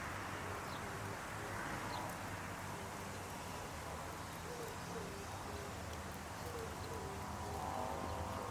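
An animal calling: a run of short, hoot-like notes repeating about twice a second, starting about halfway through, over a steady background hiss.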